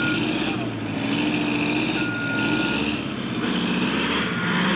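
A 1977 American LaFrance fire truck's Detroit Diesel 8V71 two-stroke V8 rises and falls in revs as the truck, stuck in mud, is rocked in reverse. Its backup alarm beeps about two seconds in and again faintly near the end. One wheel is spinning without grip.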